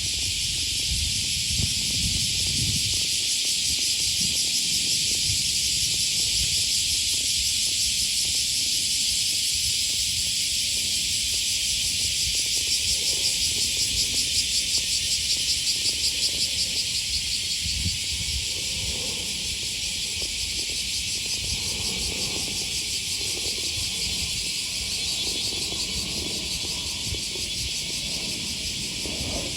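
Chorus of cicadas buzzing, a dense high-pitched drone that pulses rapidly for a few seconds around the middle.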